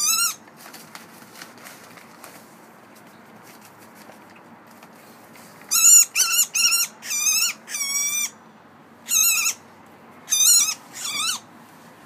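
A trapped wild bird calling in distress while gloved hands reach for it: harsh, wavering squawks, one at the very start, then a string of eight in quick clusters from about halfway through to near the end.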